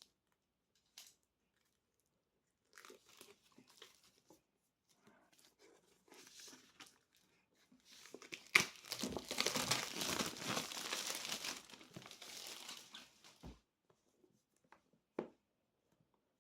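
Gift-box packaging being unwrapped by hand: light rustling at first, then about five seconds of loud tearing and crinkling starting about eight seconds in, followed by a couple of small clicks.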